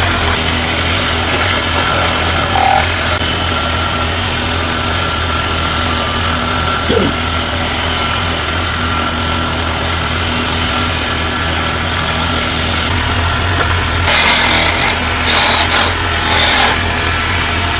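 A motor running steadily with a low hum. From about fourteen seconds in, irregular bursts of hissy noise join it.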